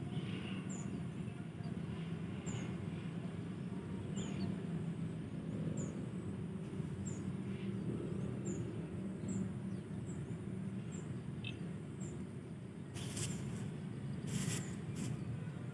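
Outdoor ambience: a steady low rumble, with a short, high chirp repeating about once a second and two brief rustling bursts near the end.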